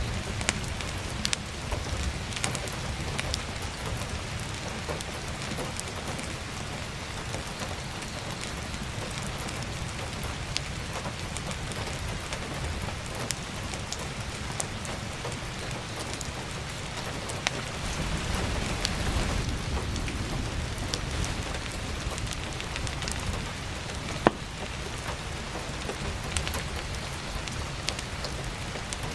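Heavy rain pattering steadily, with sharp pops and crackles of burning firewood scattered through it, one louder pop near the end. A low rumble swells for a few seconds past the middle.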